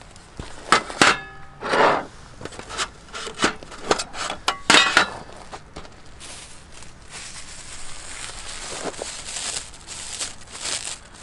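A run of sharp clinks and knocks of metal camp cookware, a few ringing briefly, over the first five seconds, then a softer steady crackling.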